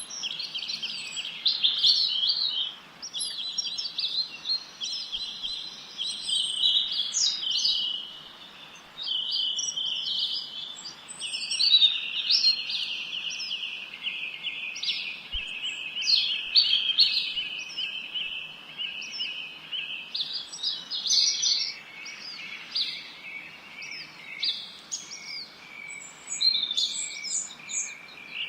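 Songbirds chirping and trilling continuously. Rapid high trills overlap with short sharp chirps, with more than one bird singing at once.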